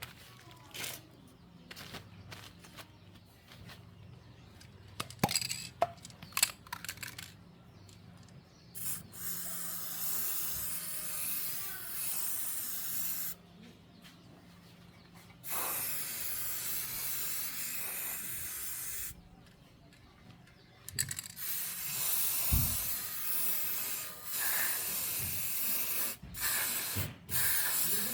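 Hissing spray in three long bursts of several seconds each, after a run of scattered clicks and knocks.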